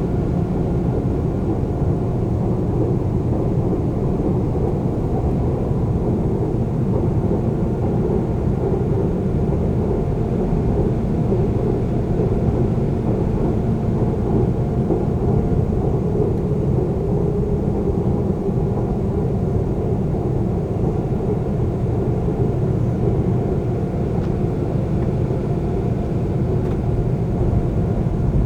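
Seoul subway train running between stations: a steady low rumble of wheels on the track, with a faint steady hum above it.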